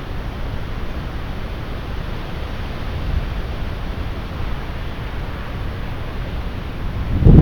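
Heavy rain falling steadily in a thunderstorm, with strong wind rumbling on the microphone. Near the end a sudden louder, deeper surge comes in.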